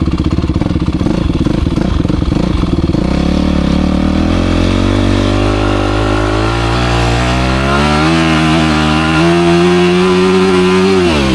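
Motocross bike engine running rough and low at first, then climbing steadily in pitch as it accelerates and holding high revs, before the pitch drops sharply near the end as the throttle closes.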